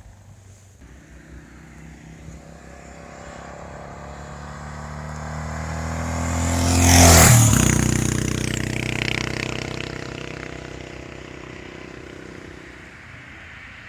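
Yamaha XT 600 43F single-cylinder four-stroke enduro engine with a Sebring exhaust, riding past at a steady throttle: it grows louder as it approaches, passes about seven seconds in with a drop in pitch, then fades away.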